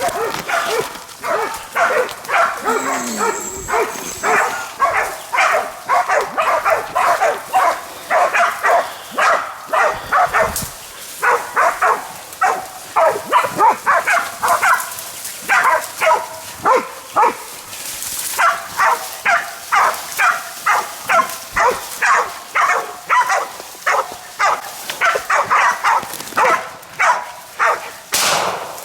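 Bailing pig dogs barking continuously, about two to three barks a second, at a feral boar they are holding at bay.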